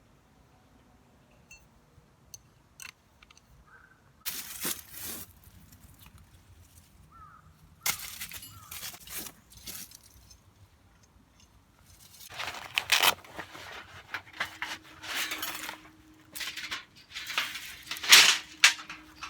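Rustling and crunching in irregular clusters, loudest near the end.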